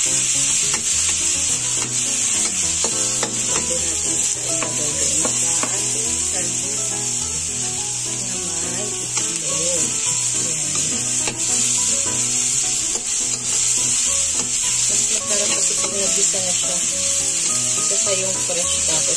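Chopped onion and garlic sizzling steadily in hot oil in a wok, with a spatula scraping and tapping against the pan as it is stirred.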